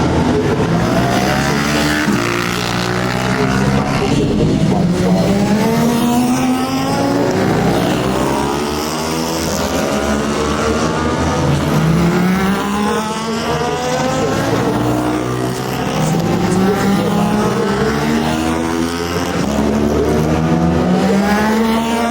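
Superbike racing motorcycles at full throttle on track. The engine pitch climbs and drops back repeatedly as the bikes shift up through the gears.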